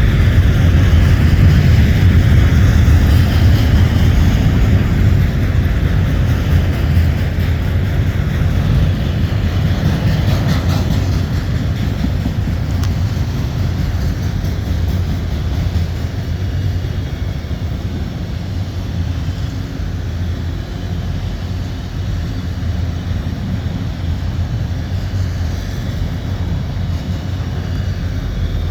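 Autorack freight cars rolling past, a steady low rumble of steel wheels on rail that eases slowly.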